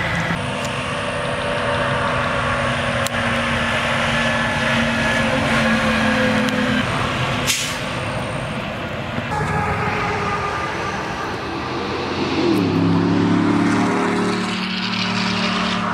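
Heavy diesel truck running along the road, its engine note rising and holding about twelve seconds in. There is a short sharp sound about halfway through.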